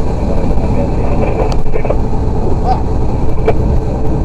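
A truck's engine running steadily, heard from inside the cab as a dense low rumble with a steady hum, a few faint brief voice-like sounds over it.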